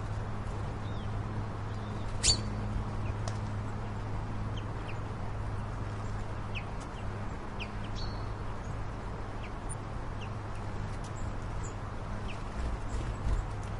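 Scattered short bird chirps over a steady low hum, with a single sharp click about two seconds in.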